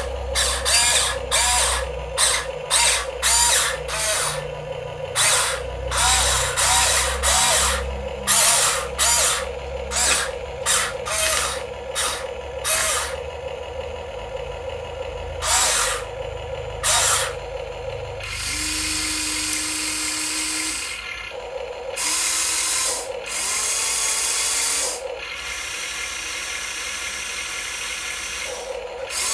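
Small electric motors of radio-controlled model vehicles whirring in short spurts, each with a brief rising and falling whine. About halfway through they change to a few longer, steady runs of two to four seconds.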